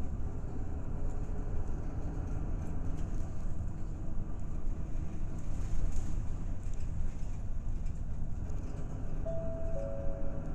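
Route bus heard from inside the cabin while driving: steady engine and road rumble. Near the end a brief two-note falling tone sounds.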